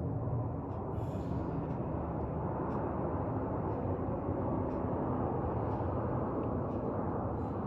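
Jet airliner engines on a landing approach: a steady rumble and hiss that holds at an even level.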